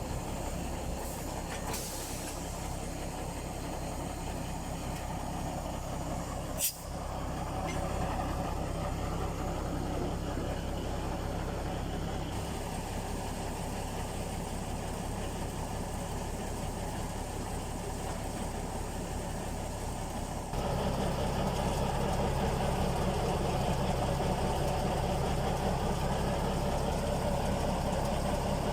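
Mk48 narrow-gauge diesel locomotive engine running steadily, with a sharp click about seven seconds in. It becomes louder about twenty seconds in.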